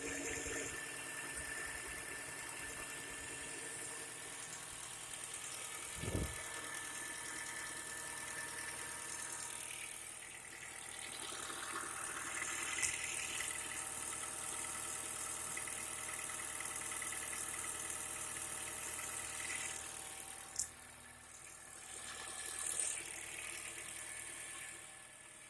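Honda Fit engine running at idle, picking up a couple of times as if the throttle is opened, with a low thump about six seconds in. The owner reports a knock at idle and under throttle that stops when the gas is released.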